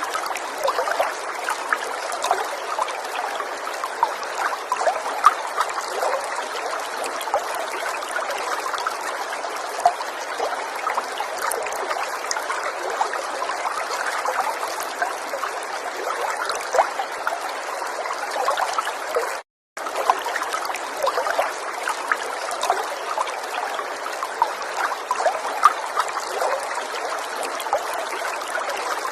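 River water flowing and trickling over stones, a steady babble with many small splashes. It cuts out completely for a split second about two-thirds of the way through.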